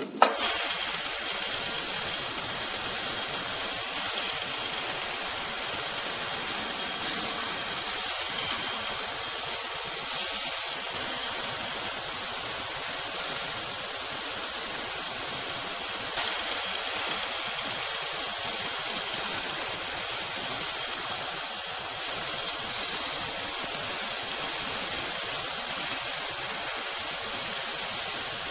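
A workshop tool running steadily with an even hiss. It starts suddenly and keeps a constant level throughout.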